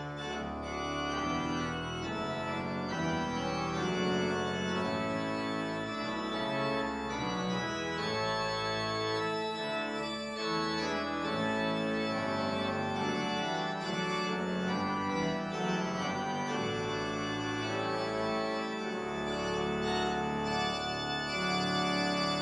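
Organ playing a postlude, sustained chords moving over low pedal notes.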